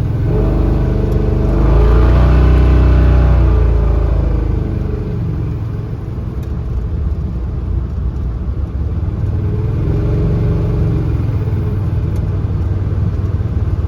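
Chevrolet 454 big-block V8 with a roller cam and Harland Sharp roller rocker arms being revved: the engine speed rises and holds highest for a couple of seconds, falls back, then comes up a little again near ten seconds. The owner is chasing a clatter that shows up around 2,500 rpm and seems to go away with more throttle.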